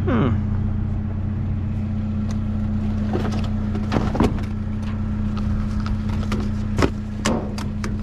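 Vehicle engine running steadily while driving, heard from inside the cab as a low, even hum, with a few light clicks and knocks from the cab.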